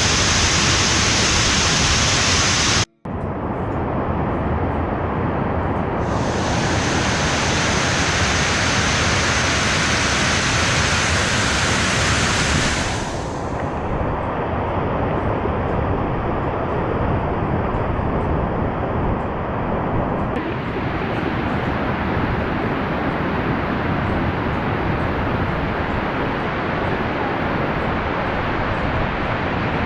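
Waterfall: a steady rush of falling water. It breaks off abruptly for an instant about three seconds in, and its tone shifts several times, brighter and hissier from about six to thirteen seconds in, where the recording is cut between takes.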